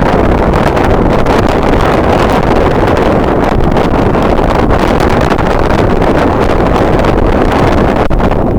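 Strong wind buffeting the camera microphone: loud, steady, low rumbling noise that never lets up.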